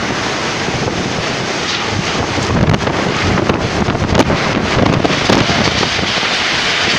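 Cyclone-force wind and heavy rain: a steady, dense rush of storm noise that swells in gusts, with wind buffeting the microphone.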